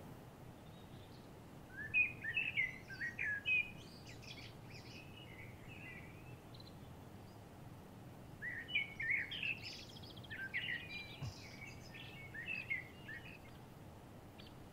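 A songbird singing two phrases of quick, varied chirping notes, a short one about two seconds in and a longer one past the middle, over a faint steady hiss.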